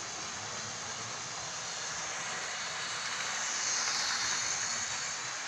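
Model train running along the track: a steady motor whirr and wheel rumble that swells slightly about four seconds in, then eases off.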